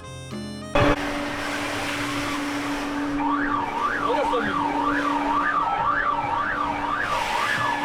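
Background music cuts off about a second in, giving way to a steady hum over a noisy background. From about three seconds in, an electronic alarm warbles up and down, about two sweeps a second.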